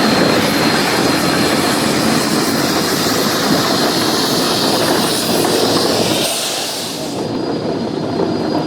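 Geared steam logging locomotive working past on the rails: a dense, steady rush of exhaust and running-gear noise with a thin, steady high squeal. The high hiss drops away about seven seconds in.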